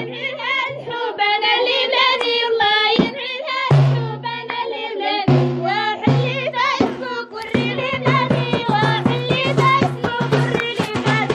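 Jbala folk music: an ornamented, wavering vocal melody over a steady low drone, with drum beats.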